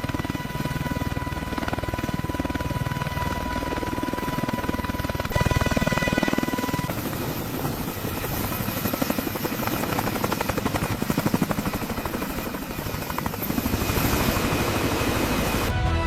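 CH-53K King Stallion heavy-lift helicopter hovering: a steady turbine whine over rotor noise. It grows louder about five seconds in, and the rotor becomes a fast chopping through the middle.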